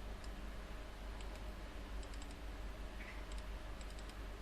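Faint, scattered clicks of a computer keyboard and mouse being worked, over a steady low hum.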